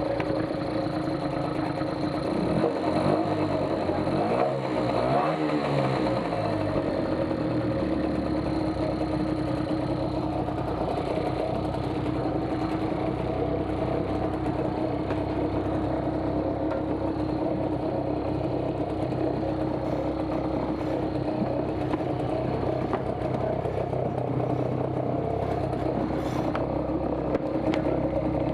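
A 3.6 HP Parsun outboard motor running steadily, its revs wavering for a few seconds early on before settling to an even note.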